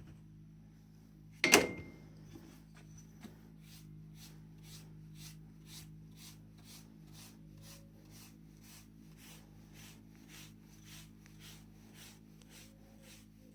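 Hand work on a car trim ring: a single sharp knock with a brief ring about a second and a half in, as something is set down. Faint, even strokes follow, about two and a half a second, over a steady low hum.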